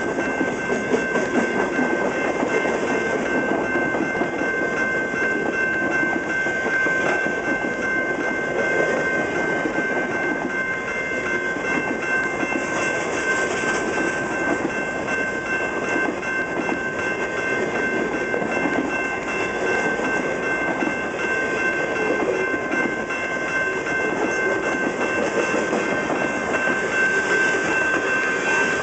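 Canadian National freight train's cars rolling past over a track crossover, a continuous loud rumble with a few steady high-pitched tones ringing above it.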